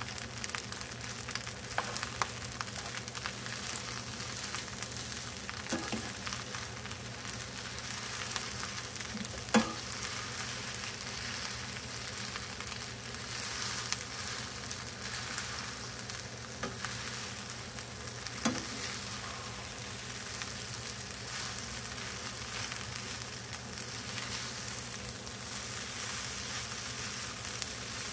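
Salmon fried rice sizzling steadily in a frying pan as it is stirred and turned with a wooden spatula and a metal spoon, with scattered clicks of the utensils against the pan; the two loudest knocks come about a third and two-thirds of the way through.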